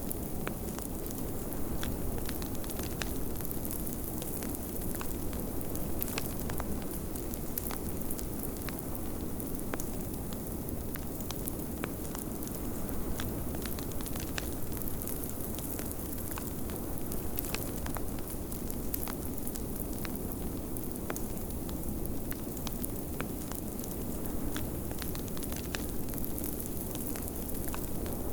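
Crackling fireplace with many small pops scattered irregularly throughout, over a steady low rush of blizzard wind.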